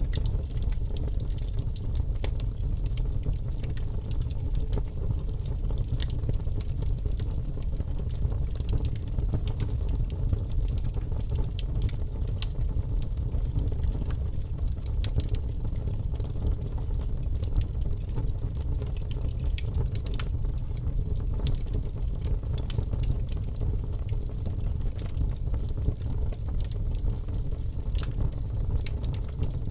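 Wood fire burning in a fireplace: a steady low rumble of flame, with scattered sharp crackles and pops from the burning logs.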